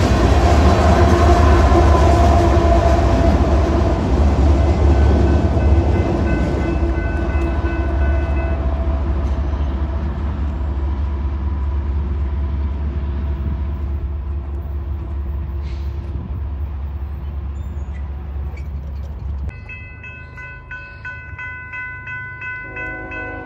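A BNSF freight train of locomotives and hopper cars rumbles past a grade crossing, a heavy low rumble that slowly fades. After a cut near the end, a crossing bell rings in steady, even strokes. A train horn starts sounding in the last second or so.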